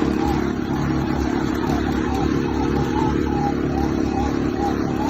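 Engine running steadily under load, held at a constant throttle while it pulls a heavy furnace up out of a basement.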